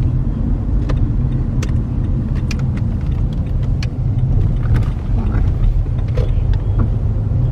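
Car driving: a steady low rumble of road and engine noise, with a few faint clicks scattered through it.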